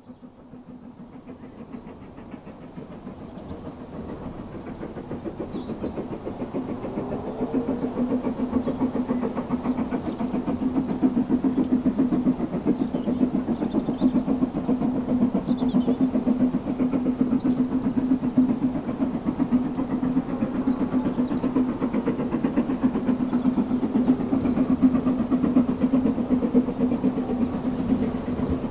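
A steam-hauled heritage train approaching and running past, growing louder over the first eight seconds or so, then holding steady with a low steady tone and rapid rhythmic clatter.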